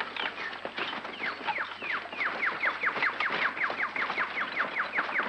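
A bird calling a rapid run of short, downward-sliding whistled notes, about six a second, starting about a second in.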